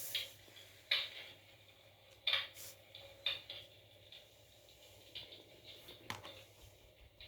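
Wood fire crackling in a fireplace: a handful of sharp, irregular pops and clicks over a faint steady hum.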